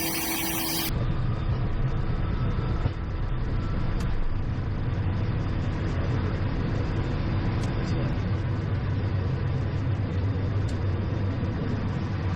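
Cessna Citation XL's twin turbofan engines and airflow heard inside the cockpit on the takeoff roll. It is a steady low hum with an even rush, beginning about a second in.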